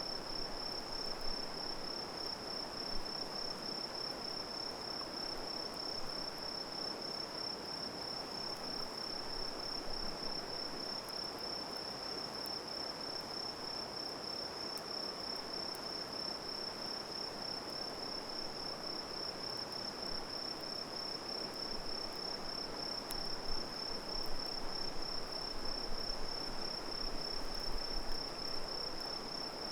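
Crickets chirping in one steady, unbroken high trill, over an even background hiss. A few faint crackles from the campfire come near the end.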